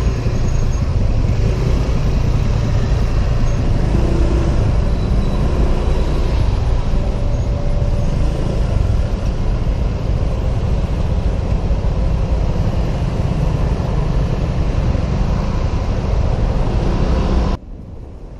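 Helmet-mounted recording from a Honda PCX 125 scooter under way in city traffic: a steady, loud rush of wind buffeting and road noise, mixed with the scooter's engine and surrounding traffic. The sound drops suddenly to a quieter wind noise near the end.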